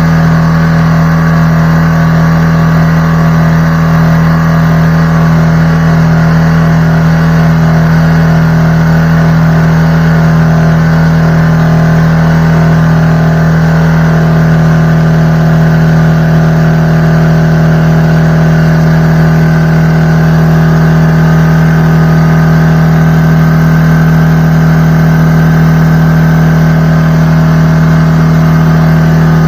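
McGraw 21-gallon air compressor running steadily with a loud, even motor hum. A pulsing in the low hum slows and dies out about halfway through.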